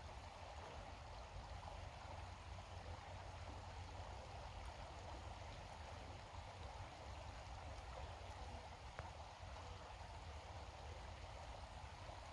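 Creek water flowing steadily over stones, faint and even.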